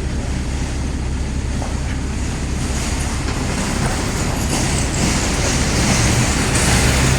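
Heavy diesel engine of the digger or truck running steadily under load while the body is nudged forward, getting a little louder in the second half.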